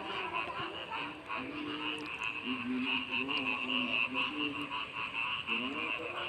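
Frog chorus from a rice field: a dense, steady, pulsing mass of calls, with a low wavering tone underneath.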